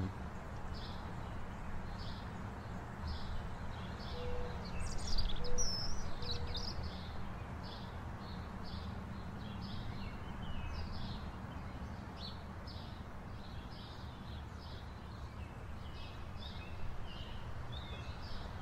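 Outdoor ambience: a bird chirping over and over at a steady pace of roughly two short chirps a second, with a brief flurry of more varied bird song about five seconds in, over a steady low background rumble.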